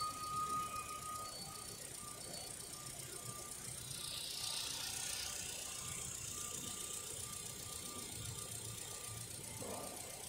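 Holden Barina's 1.6-litre Ecotec four-cylinder engine idling steadily under the open bonnet, with a faint high tone that comes and goes.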